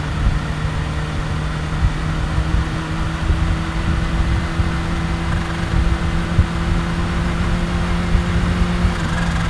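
Kawasaki Ninja H2's supercharged inline-four engine running at a steady, unchanging speed, an even tone over a rough low rumble from the exhaust.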